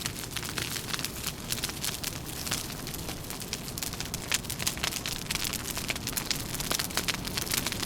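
Fire crackling, with dense, irregular snaps and pops over a low steady rumble.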